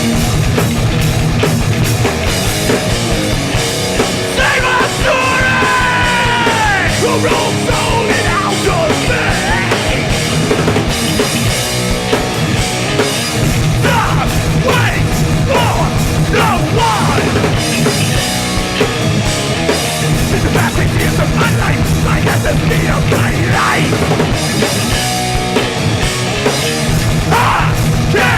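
Hardcore punk band playing live and loud, with drums, guitars and shouted vocals.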